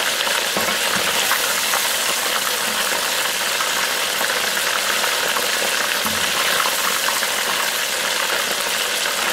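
Cornstarch-coated beef pieces frying in hot oil in a wok: a steady, crackling sizzle as the pieces are lifted out with a wire skimmer.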